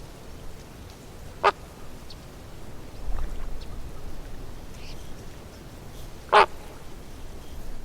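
A duck quacking twice, two short loud quacks about five seconds apart, with a few faint calls in between.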